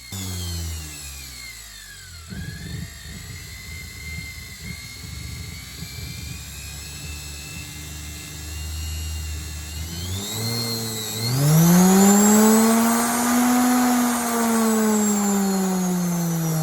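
Washing machine universal motor run through an SCR speed controller. Its whine falls as it slows over the first two seconds, then it hums low for several seconds. About ten seconds in it speeds up sharply to a loud high whine that slowly eases off.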